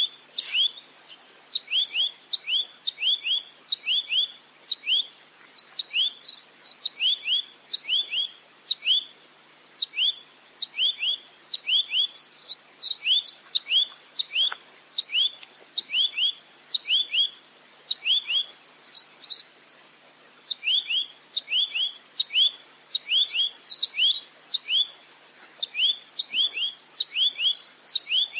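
A nuthatch (rambatan) calling a long unbroken series of short, sharp, downward-sliding notes, about three a second, with bursts of higher twittering every few seconds.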